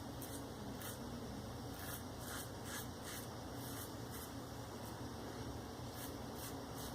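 Maggard V3A safety razor with a Shark Super Chrome blade scraping through lathered facial stubble in short, quick strokes.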